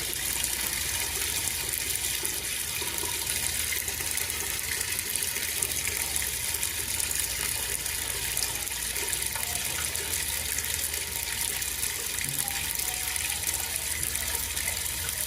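Water rushing steadily down into a freshly jetted sewer line.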